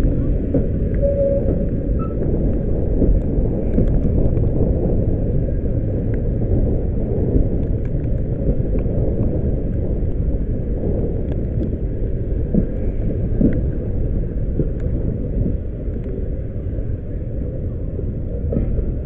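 Steady rumble of a steam-hauled passenger train running at speed, heard from an open carriage window.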